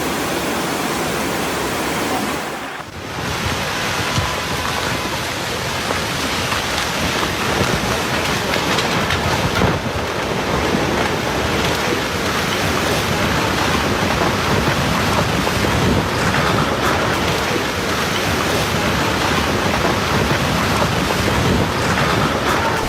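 Rushing storm water and wind: a dense, steady noise that dips briefly about three seconds in.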